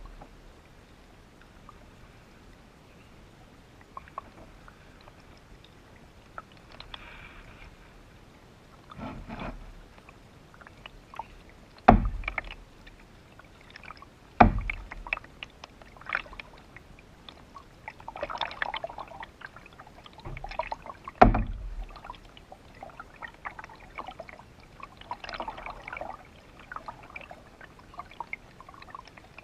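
Canoe being paddled: intermittent splashing and dripping from paddle strokes, with three loud hollow knocks spread through the middle.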